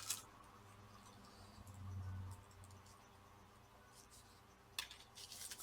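Mostly near silence with a few faint, sharp clicks, one at the start and a couple near the end: small laptop screws and a screwdriver being handled as the cooling fan is screwed back in.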